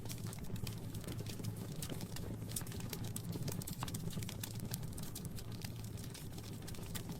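Wood fire crackling in a fireplace: a constant run of irregular sharp pops and snaps over a low steady rumble.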